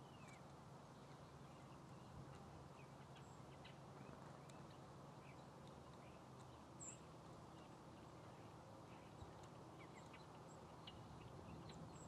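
Quiet ambience: faint, scattered short chips and call notes of small feeder birds, with one thin, very high note about seven seconds in, over a faint steady low hum.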